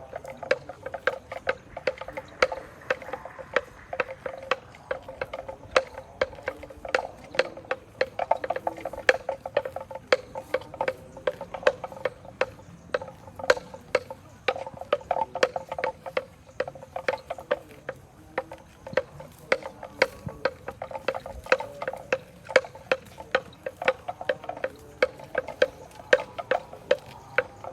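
A cow grazing close up: irregular crisp rips and crunches as it tears and chews grass, a few a second.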